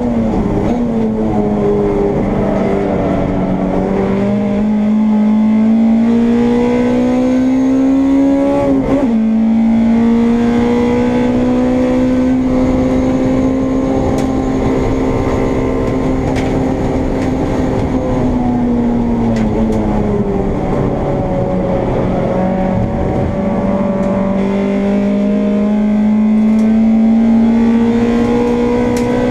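Honda Integra race car's engine heard from inside the cockpit, pulling up through the revs under full load. About nine seconds in the pitch drops sharply at a gearshift, then holds high. A little past halfway the revs fall away as the driver lifts and slows for a corner, and they climb again near the end.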